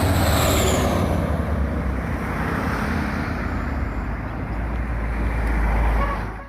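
Heavy truck or bus diesel engine running close by with road noise, the low rumble growing stronger near the end. A high falling whistle sounds in the first second.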